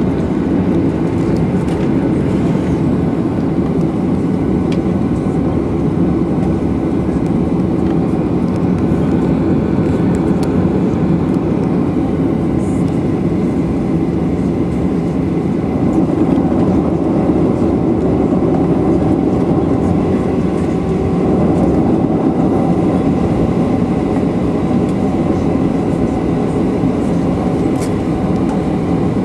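Steady cabin rumble and rushing air inside a Boeing 737-800 airliner, holding an even level, with a few faint clicks.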